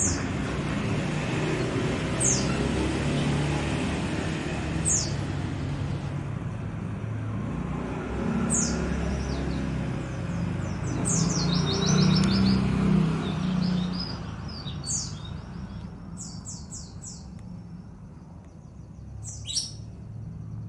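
A small songbird calling: short, high, downward-sweeping chirps every two to three seconds, breaking into quick runs of rapid notes about halfway through and again later. A low rumble runs underneath for the first two-thirds, then fades.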